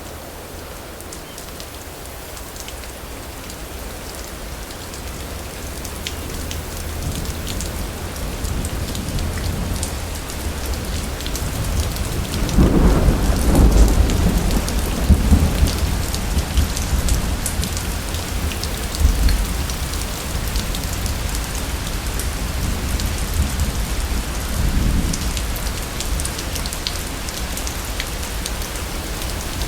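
Steady rain falling, getting heavier over the first several seconds. Thunder rolls in a long, loud low rumble about midway, with smaller rumbles later.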